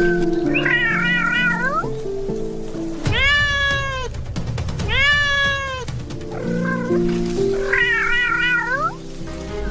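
Kitten meowing over background music: a wavering, quavering cry about a second in, two long meows that fall in pitch in the middle, and another wavering cry near the end.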